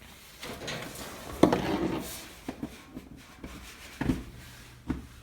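Someone handling things in a small workshop: a sharp click about a second and a half in, then a few light knocks and some rustling.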